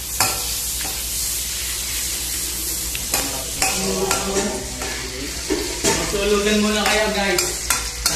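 Sliced garlic and onion sizzling in oil in an aluminium wok while a metal spatula stirs and scrapes the pan, with a few sharp clinks of spatula on metal. A pitched, voice-like tone sounds for a few seconds in the middle.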